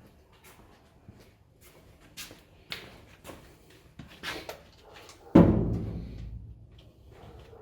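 Light clicks and knocks of sheet metal being handled, then one loud booming bang about five seconds in that rings on for a second or more, like a steel panel of the truck cab being struck or dropped.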